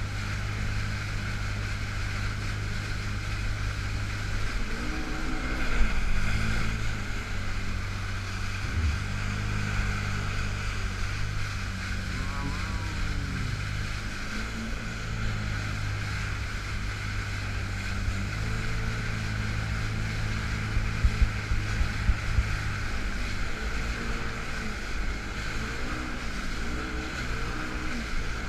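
Yamaha FX Cruiser H.O. jet ski engine running steadily under way, its note shifting up and down as the throttle changes, with wind on the microphone and rushing water. The engine is stuck in Lo-Mode, limited to about 85% power. A few brief louder knocks come about six seconds in and again around three-quarters through.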